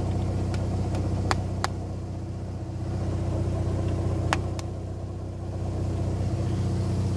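Mazda RX-7 FC's naturally aspirated 13B two-rotor rotary engine idling at about 950 rpm while still warming up, its sound sagging briefly twice and recovering. A few sharp clicks sound over it.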